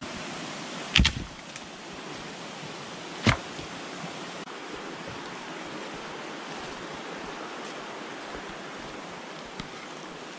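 Steady rain falling on the bush, with two sharp knocks or cracks, about a second in and about three seconds in.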